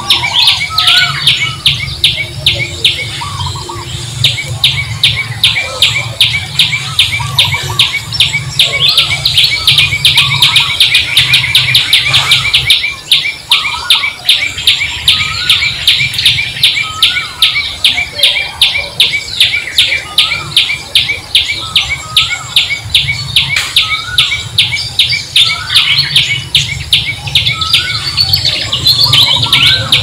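Birdsong: a fast, steady run of high chirps, several a second, with lower rising-and-falling calls every few seconds and a low hum beneath.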